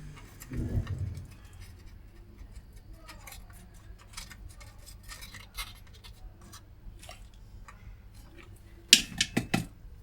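Light clicks and taps of small hand tools being handled at an electronics repair bench, with a low bump about half a second in and a quick run of four or five sharp clicks near the end.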